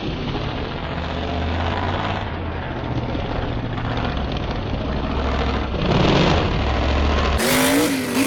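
Mega truck engines running, louder for a moment about six seconds in. Near the end the sound changes abruptly to an engine whose pitch rises and falls.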